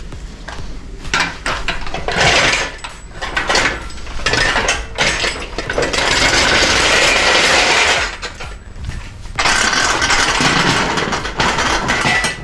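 Hand tools working on engine parts: irregular clicks and metal-on-metal noise, with two longer stretches of steady rasping, the first about halfway through and the second near the end.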